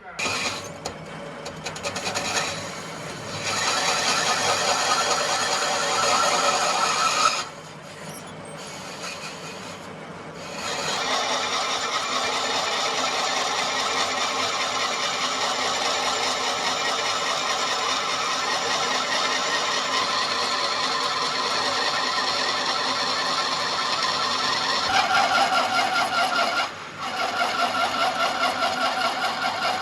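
Workshop machinery running steadily with a fast, even ripple. It drops off for about three seconds near the quarter mark and briefly again near the end, and changes pitch a few seconds before that second drop.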